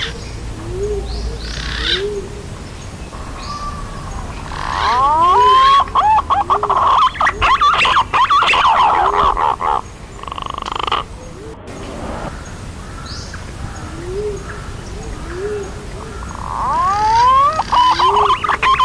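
Green pigeon (punai) calls played as a lure: a phrase of rising whistled notes about five seconds in breaks into a fast warbling run several seconds long, and the same phrase starts again near the end. Short soft low notes repeat steadily underneath.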